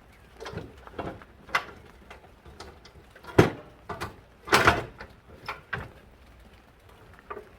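A string of sharp knocks and clatters, about ten in all, spaced irregularly; the loudest comes about three and a half seconds in, with a heavy cluster about a second later.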